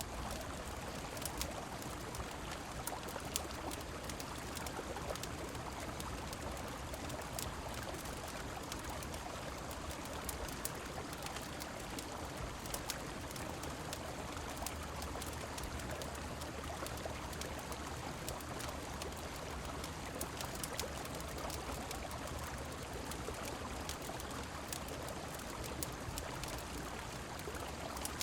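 Steady rush of a flowing river and falling rain, with scattered sharp crackles of a wood fire.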